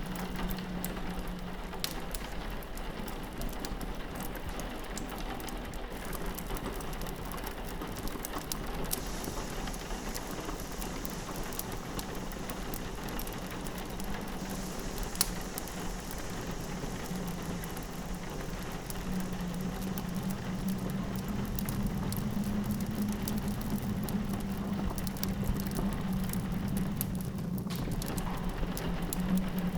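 Rain pattering against a window over a crackling wood fire, with many small sharp pops. A low, steady wind howl runs underneath and grows louder past the middle.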